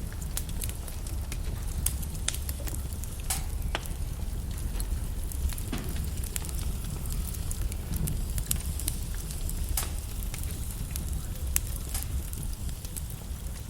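Wood logs burning in a fireplace, crackling and popping irregularly over a steady low rumble of the flames.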